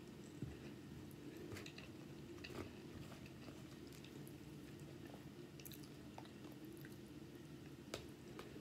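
Faint close-miked chewing of a mouthful of rice, with a metal spoon scraping and tapping a paper plate as small scattered clicks, the sharpest near the end, over a steady low hum.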